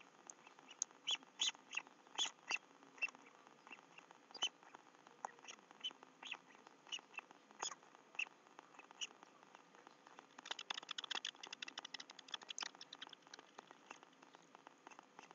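Faint raindrops ticking in irregular single sharp taps, with a denser quick flurry of ticks from about ten and a half to thirteen seconds in.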